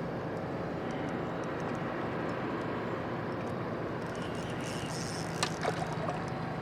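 Boat motor running steadily, a constant low hum under a wash of water noise, with a few sharp clicks about five and a half seconds in.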